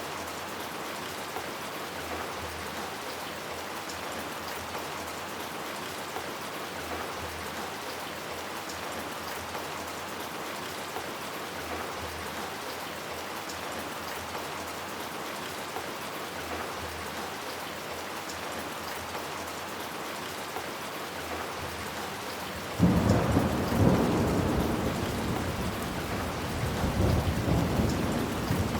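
Steady rain falling. About three-quarters of the way through, a loud crack of thunder breaks in suddenly and rolls on as a rumble, swelling again before it fades.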